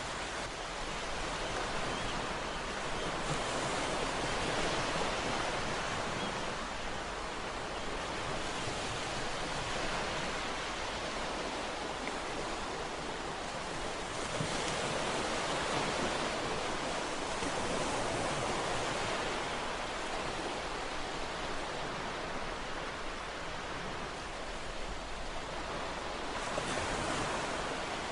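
Ocean waves breaking and washing on a shore in a continuous rush, swelling and falling every few seconds.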